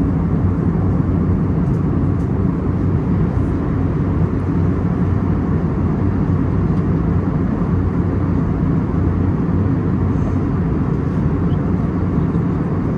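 Steady in-flight cabin noise of an Airbus A321neo: a constant drone of engines and airflow, heaviest in the low end, with a faint steady low hum.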